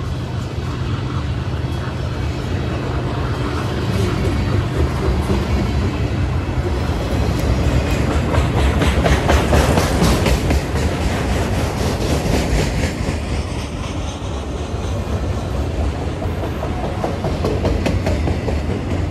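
Freight cars of a long freight train rolling past at speed with a steady rumble. The wheels click rhythmically over rail joints, loudest about halfway through.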